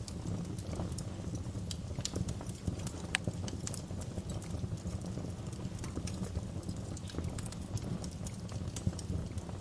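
Wood fire crackling in a fireplace: irregular sharp pops and snaps over a steady low rumble of the burning fire, with one louder pop about three seconds in.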